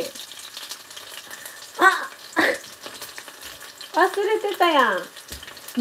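Chicken pieces shallow-frying in oil in a pan, giving a steady sizzle throughout. Short bits of voice break in about two seconds in and again around four to five seconds; these are the loudest moments.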